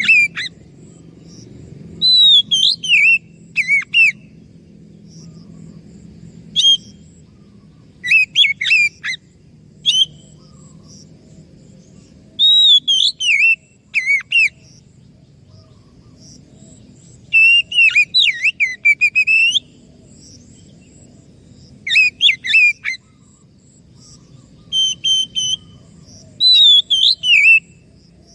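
Oriental magpie-robin (kacer) singing: loud, sweeping whistled phrases that warble up and down, each a second or two long and separated by short pauses, over a faint low hum.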